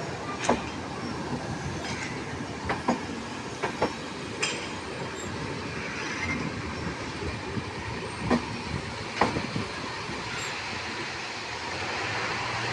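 A passing train running on the track with a steady rumble, its wheels clanking sharply and irregularly over the rail joints.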